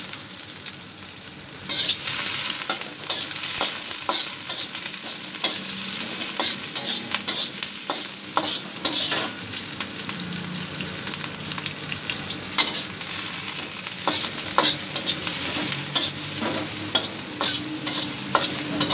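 Diced onion and garlic sizzling in hot oil in a wok, stirred with a metal spatula that scrapes and clicks against the pan again and again. The sizzle grows louder about two seconds in.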